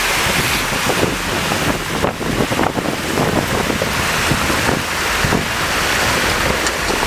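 Loud, steady rushing noise of wind buffeting the microphone, with low rumbling gusts.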